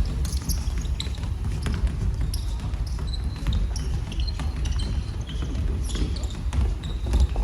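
Basketball play on an indoor court: the ball bouncing repeatedly on the floor, with short high squeaks of sneakers on the court.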